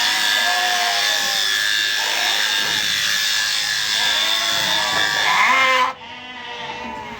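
Sheep bleating repeatedly over the steady whine of electric shearing clippers, which cut off suddenly about six seconds in while the bleating goes on.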